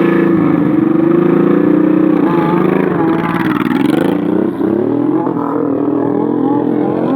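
Motorcycle engines revving loudly, their pitch rising and falling again and again, as though more than one engine runs and shifts at once.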